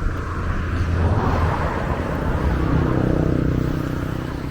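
Road traffic: a motor vehicle's engine running as it passes close by, with a rushing tyre and road noise that swells about a second in and eases off near the end.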